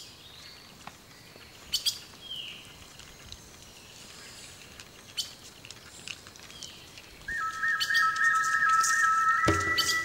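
Birds chirping over faint outdoor ambience, with a few sharp clicks. About seven seconds in, music begins suddenly with a high held tone, and lower sounds join it near the end.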